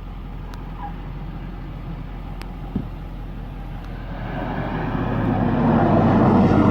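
Pilatus PC-12's single Pratt & Whitney PT6A turboprop and propeller running as the aircraft lands, a steady drone that grows much louder from about two-thirds of the way in as the plane comes close.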